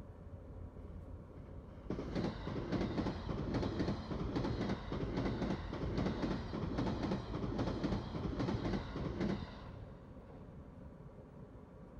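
A dense, continuous rattling clatter that starts abruptly about two seconds in and stops a couple of seconds before the end.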